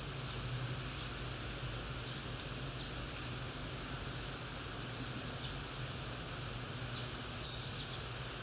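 Campfire crackling: a steady hiss dotted with small scattered pops, one sharper pop near the end.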